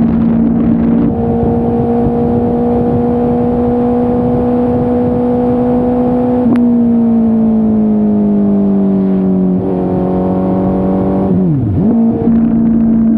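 Suzuki Hayabusa's inline-four engine running under way. Its note holds steady and creeps slightly higher for about six seconds, then changes abruptly and falls gradually. Near the end it dips sharply and comes back up to a steady note.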